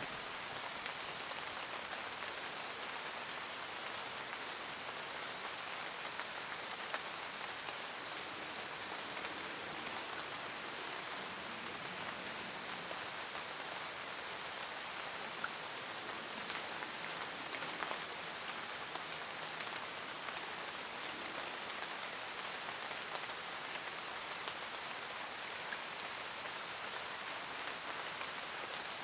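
Steady rain falling on leaves in a forest, a constant hiss with scattered individual drops pattering.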